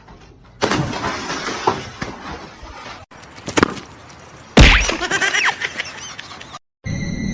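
A loud crash about four and a half seconds in, with rattling after it, among shorter knocks and clatter.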